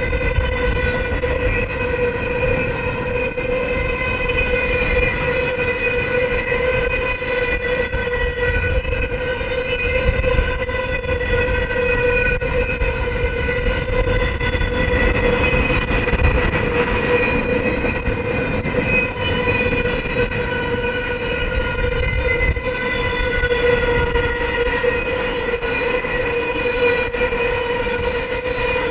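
Double-stack intermodal freight cars rolling past on the rails: a low, steady rumble of wheels on track, with a steady high ringing tone over it.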